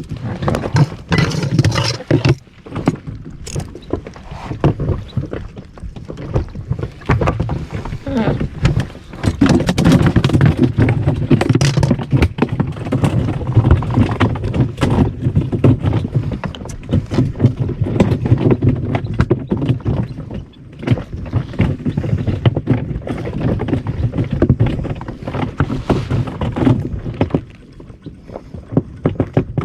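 Water slapping and knocking against the hull of a small inflatable boat, with many irregular clicks and knocks over a low, uneven rumble that swells and fades.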